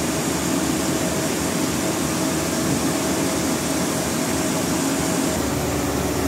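Sawmill machinery running steadily, a continuous mechanical hum with a hiss over it; the low hum grows fuller about five seconds in.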